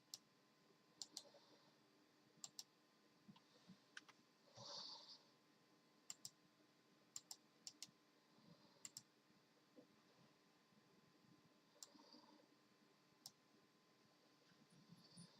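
Faint, scattered clicks of computer keyboard keys being pressed one at a time, irregularly spaced, with a brief soft rustle about five seconds in.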